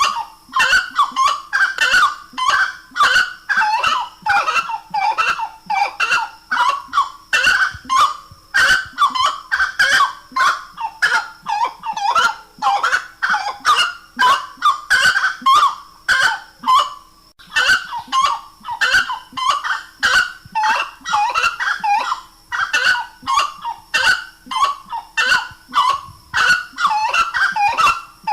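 Grey-cowled wood rail (saracura-três-potes) calling: an unbroken run of rapidly repeated loud calls, several a second.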